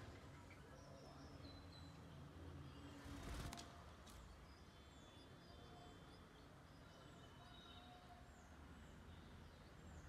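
Faint high bird chirps, short falling notes repeated every second or so, over a low background rumble. A brief rustle about three seconds in.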